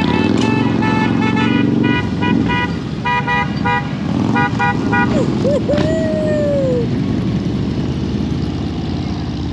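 Vehicle horns beeping in quick runs of short toots over idling motorcycle engines. About six seconds in, a long falling whistle-like tone sounds once, after which only the engines run.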